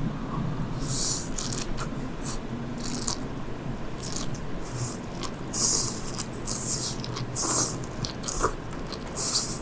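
Close-miked eating of sea grapes: crisp, crackly chewing noises in irregular short bursts, a few louder ones in the second half.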